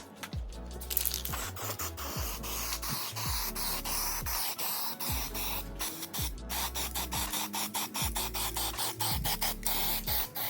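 Aerosol can of etch primer hissing as it is sprayed in passes over aluminium panels, stopping right at the end, over background music with a steady beat.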